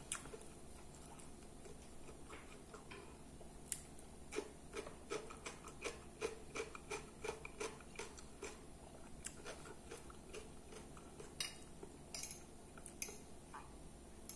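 Close-miked chewing of a raw cucumber slice: a run of crisp, wet crunches a few a second, thinning out, with a few sharper clicks near the end.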